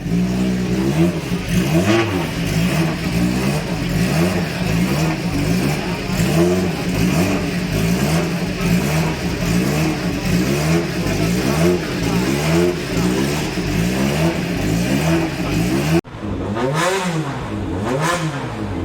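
Vintage racing car engine revving, its pitch rising and falling again and again. The sound cuts off abruptly near the end and picks up again with more revs.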